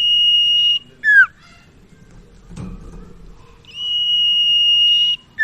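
Common iora (burung sirtu) song: a long, steady, high whistle held for over a second, then a short note that drops sharply in pitch. The phrase comes twice.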